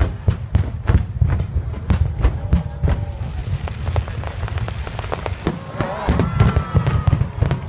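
Fireworks display: many shells bursting in quick succession, a dense run of booms and crackling pops.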